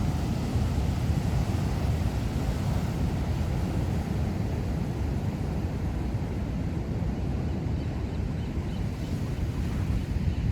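Heavy ocean surf from large storm waves breaking, a steady wash of noise, with wind rumbling on the microphone.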